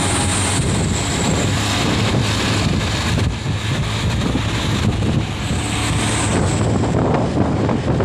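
Diesel truck engine running hard under throttle, a steady loud drone, with wind buffeting the microphone.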